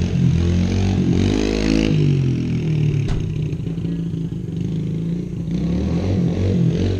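Small dirt bike engine being ridden, the revs climbing about a second in and falling back sharply just before two seconds, then running on at a steadier pitch.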